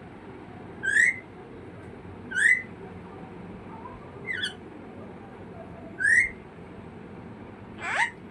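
Pet bird calling repeatedly: five short whistled calls, each about a second or two apart, most rising in pitch and one falling.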